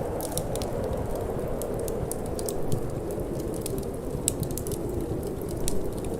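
Wood fire crackling, with many sharp irregular pops and snaps, over a steady low rush of cold wind.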